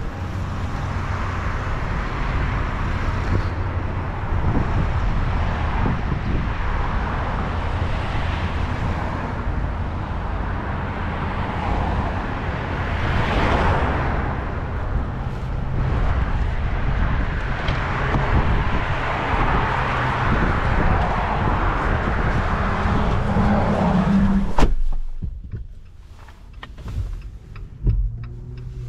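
Steady engine drone and road noise inside a semi-truck's cab while driving. About 25 seconds in there is a sharp click and the noise drops off suddenly, leaving a quieter stretch with a few faint clicks.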